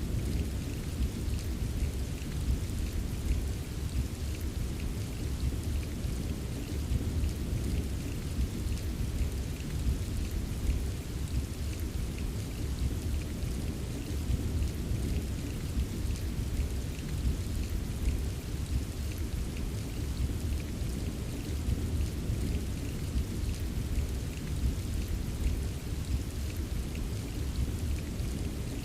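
Steady rain, with many small drop taps over a continuous low rumble of distant thunder.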